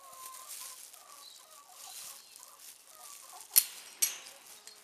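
Hens clucking softly and repeatedly, with rustling. Two sharp clicks about half a second apart come near the end.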